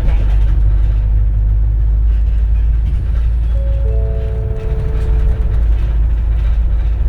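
Inside a 2004 CNG (compressed natural gas) city bus under way: a steady low rumble from the natural-gas engine and drivetrain. About three and a half seconds in, a short electronic chime of a few overlapping held notes sounds for about two seconds.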